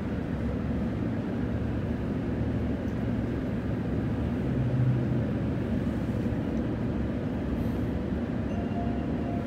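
Steady low rumble inside the carriage of a Transperth Bombardier B-series electric train, with a brief stronger low hum around the middle.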